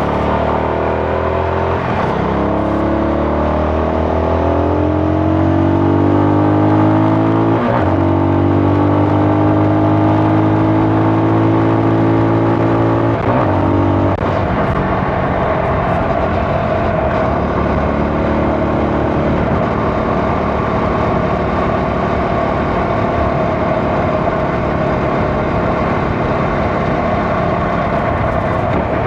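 CFMoto 250NK's single-cylinder engine pulling hard, its pitch climbing, with quick gear changes about eight and thirteen seconds in. It then holds a steady cruise under a rushing wind and road noise.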